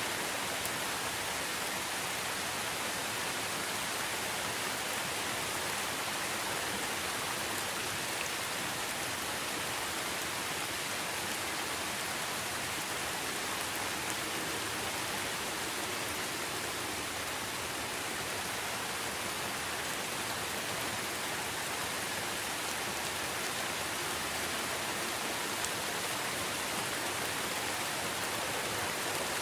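Steady rain falling: an even hiss with a few faint drop ticks, unchanging throughout.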